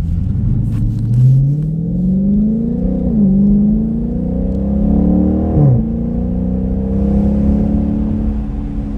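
Dodge Charger Scat Pack's 6.4-litre HEMI V8 through an MBRP Street catback exhaust, accelerating: the engine pitch climbs, drops at two gear shifts about 3 and 6 seconds in, then settles to a steady cruise. The owner found this exhaust setup sounding weak.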